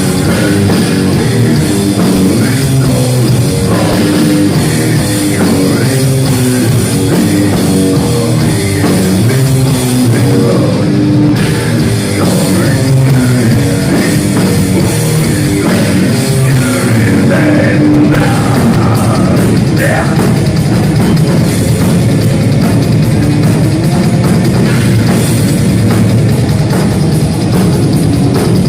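Live heavy metal band playing loud, with guitar riffs over a drum kit.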